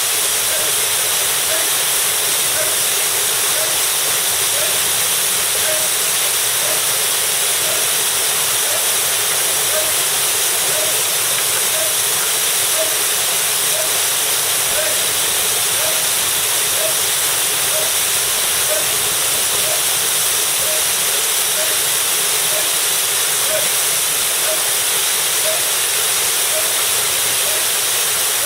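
Waterfall crashing steadily into its plunge pool, a loud, unbroken rush. A faint, regular pulse about twice a second sits under the rush.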